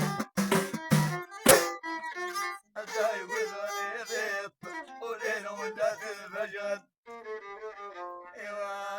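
Amazigh folk music: a few sharp plucked-string strums, then a fiddle playing a wavering, sliding melody that breaks off briefly about seven seconds in and starts again.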